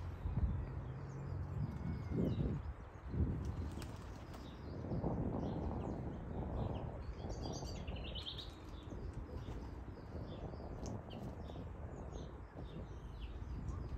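Small birds chirping and twittering in short high calls, with a denser run of calls about halfway through, over a low rumbling noise and a few dull thumps in the first few seconds.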